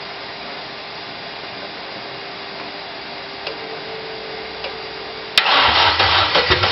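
VW G60 supercharged 1.8-litre engine firing up for the first time: a faint steady whine, then about five seconds in the engine catches suddenly and runs loudly with a deep rumble.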